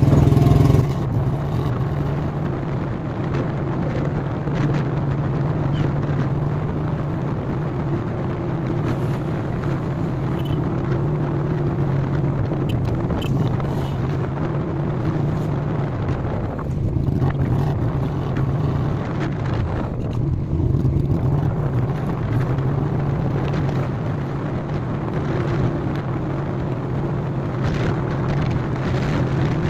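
Royal Enfield Classic 350's single-cylinder engine running steadily at highway cruising speed, heard from the rider's seat, with wind rushing over the microphone.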